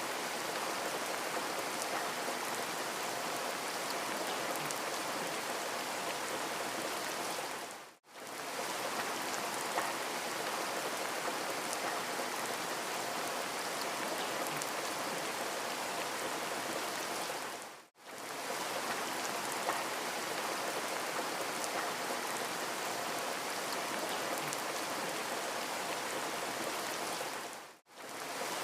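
Steady rain with fine pattering drops, an even hiss. The sound fades out and straight back in three times, about ten seconds apart.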